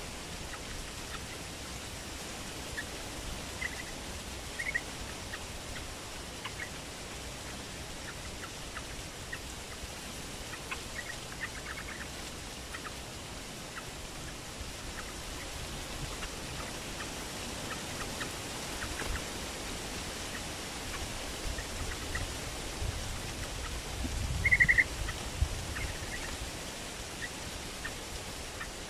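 Trapped trao trảo birds in a bamboo cage giving short, scattered chirps, with a louder flurry of calls and a low rumble about 24 seconds in, over a steady background hiss.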